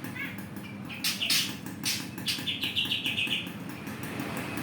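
Songbird calling: sharp chirps, then a fast trill of short repeated notes, about ten a second, lasting roughly a second.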